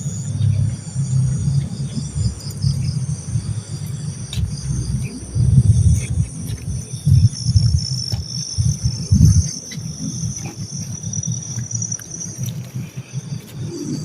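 Steady chirring of crickets and other night insects, high-pitched and continuous. Under it, a loud, uneven low rumble that stops about nine and a half seconds in.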